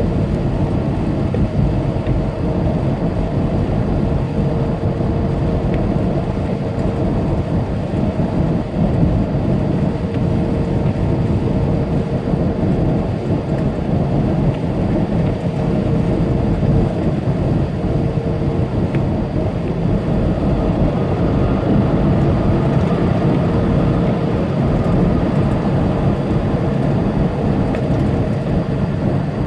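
Inside a semi truck's cab at highway speed: the steady drone of the diesel engine and tyres on the road. A faint steady whine runs through the middle of it and drops out a few seconds before the end.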